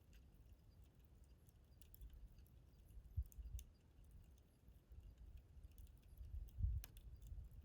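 Faint wood campfire crackling, with scattered small pops and clicks from the burning wood. Under it runs a low rumble with two louder low thumps, about three seconds and six and a half seconds in.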